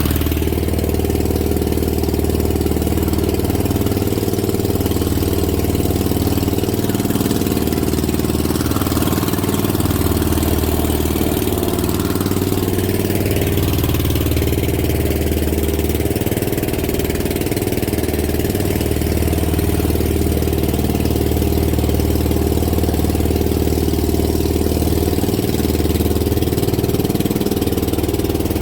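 Boat engine running steadily at an even speed, a constant low hum with no change in loudness.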